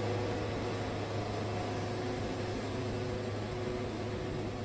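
Wood-Mizer portable bandsaw mill running steadily, a constant low hum with hiss over it, as its band blade cuts through a red cedar log.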